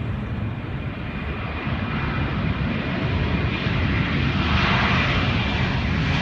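Airbus A330's jet engines roaring during takeoff, a steady rumble with a faint high whine that grows louder over the seconds.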